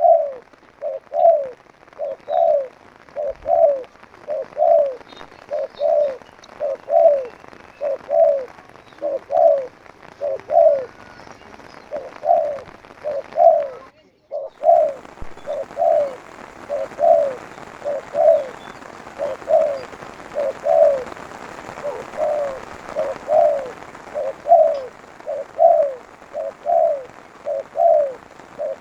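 Spotted dove (tekukur) cooing over and over in a steady, even rhythm of short low coos. There is a brief break about halfway through, after which a steady hiss sits behind the calls.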